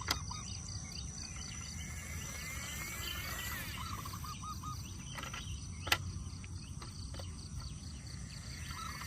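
Outdoor ambience: insects chirring steadily with short bird calls. A sharp click sounds near the start and another about six seconds in.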